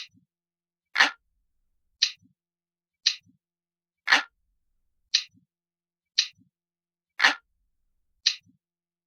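Analog clock ticking steadily, about one tick a second, with every third tick fuller and lower than the two between.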